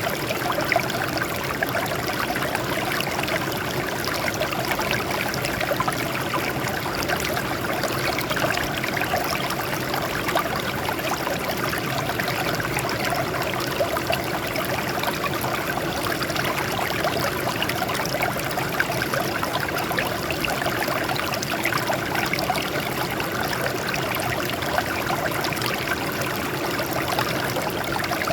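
Water flowing steadily over rocks, a continuous splashing and trickling like a small stream or cascade.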